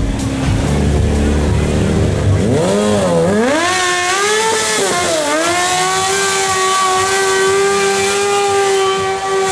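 Superbike engine rumbling low, then revved up and down twice and held at steady high revs, with a hiss building over it: a rear-wheel burnout.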